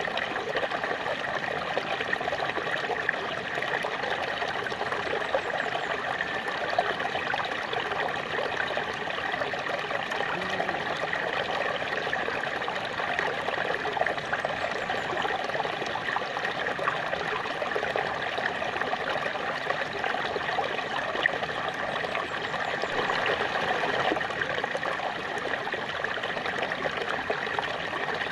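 Small waterfall splashing and trickling steadily, with small splashes scattered through it.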